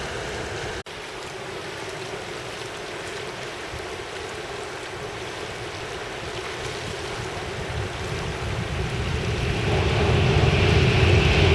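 Steady rush of wind and flowing river water, broken by a brief gap about a second in. From about eight seconds in, an approaching Shinkansen train grows steadily louder, a deepening rumble with a rising hiss.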